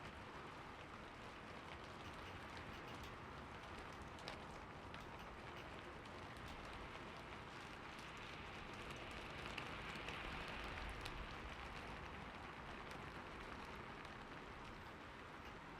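Steady rain falling, an even hiss with scattered faint drop ticks, swelling a little about two-thirds of the way through.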